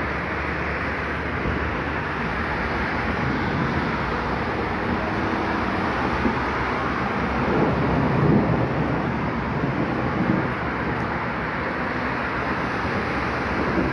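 Heavy rain falling on a flooded street, a steady dense hiss, with a car passing on the wet road that swells and fades about halfway through.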